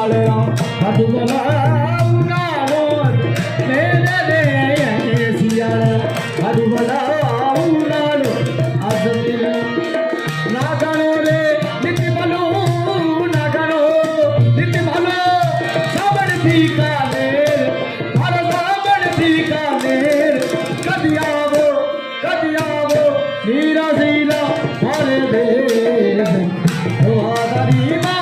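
Rajasthani folk music: a hand drum keeps a steady beat under singing and melodic accompaniment.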